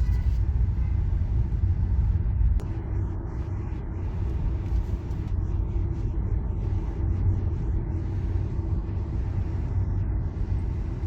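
Steady low road and tyre rumble of a Tesla driving at speed, with no engine note since the car is electric.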